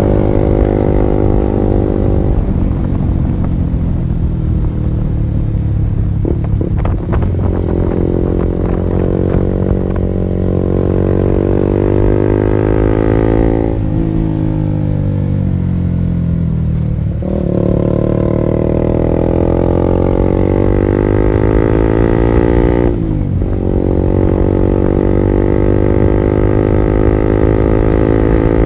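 Honda CB150R's single-cylinder engine through an R9 Alpha Series aftermarket exhaust, ridden on the road. The engine pitch climbs under acceleration and drops sharply at each gear change, three times in the second half, after a slower fall from easing off early on.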